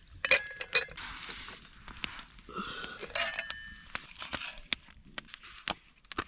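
Metal cooking pot and gear clinking, with two bright ringing clinks, about a third of a second in and about three seconds in, and small scattered clicks between.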